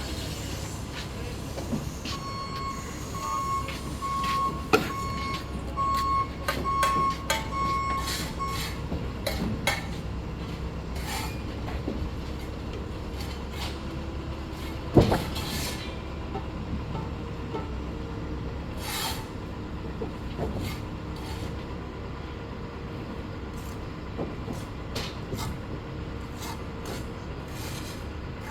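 Masonry job-site noise: a steady low engine rumble under scattered sharp knocks and clinks, the loudest about halfway through. A regular beeping runs for about six seconds, starting about two seconds in.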